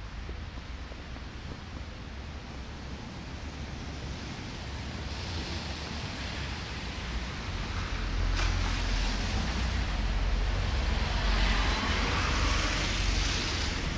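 Blizzard wind buffeting the microphone with a low rumble, and a rushing hiss that swells over the second half and eases near the end. A single short knock comes about eight seconds in.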